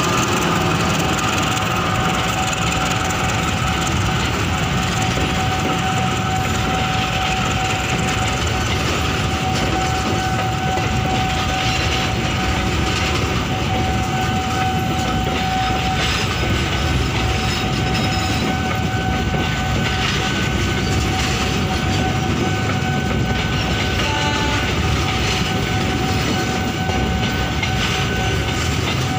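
Passenger coaches of a long-distance train rolling past on the rails, a loud, steady running rumble with a thin, steady high whine over it.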